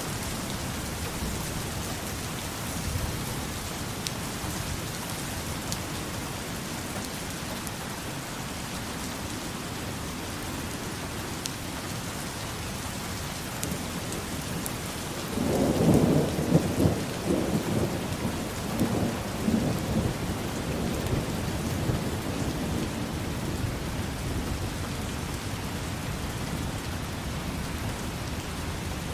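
Steady rain falling, with a peal of thunder rumbling in about halfway through, loudest for a few seconds and then trailing off.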